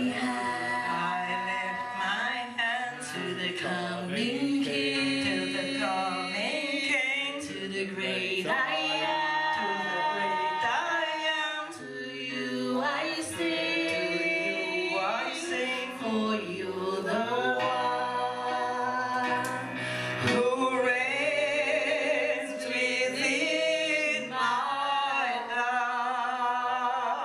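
Voices singing a slow worship song, with held notes that waver in pitch.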